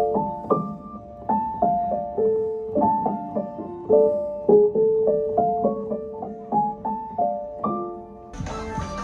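Piano music: a slow melody of single struck notes, each fading away, with little treble. A little over 8 seconds in it cuts abruptly to a busier, noisier mix.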